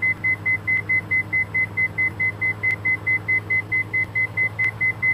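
A cockpit aural warning in a Diamond DA42 NG: a high electronic beep repeating rapidly and evenly, about five times a second, over the steady drone of the engines heard through the intercom.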